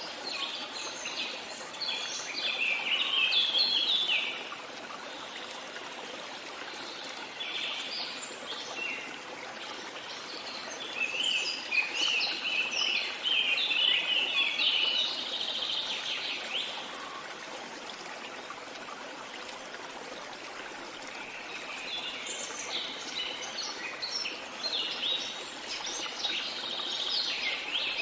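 Songbirds singing in bouts of rapid chirps a few seconds long, with quieter gaps between, over the steady rush of a stream.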